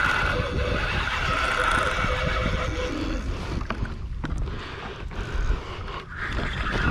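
Fishing reel drag squealing as line is pulled off, stopping about three seconds in, followed by a few sharp clicks, over wind and water noise.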